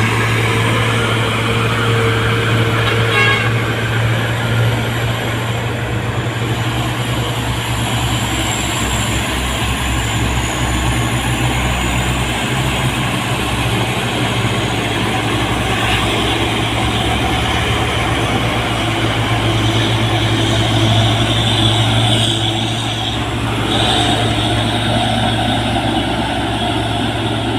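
Diesel engines of heavily loaded trucks running steadily under load as they climb a steep hill, a constant deep hum.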